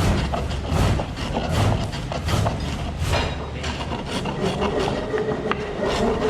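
Spring pole lathe turning wood: rhythmic cutting strokes of the tool on the work, a little more than one a second.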